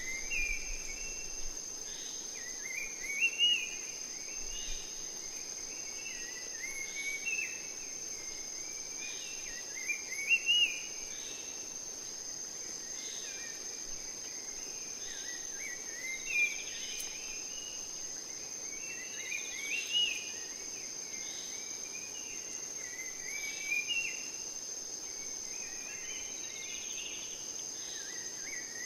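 Insects trilling steadily at a high pitch, with a bird singing short warbling phrases every few seconds; the bird phrases are the loudest sounds.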